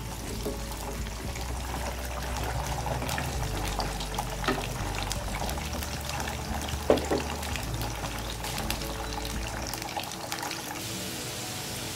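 Whole Indian gooseberries (amla) sizzling in hot mustard oil in a karahi, with a wooden spatula stirring and knocking against the pan a few times, the loudest knock about seven seconds in. Soft background music plays underneath.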